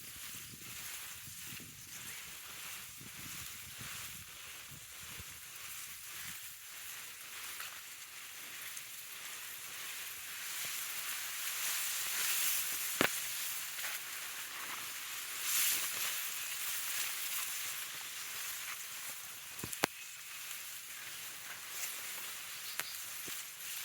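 Rustling of grass being gathered outdoors, a steady hissing rustle with two sharp clicks partway through.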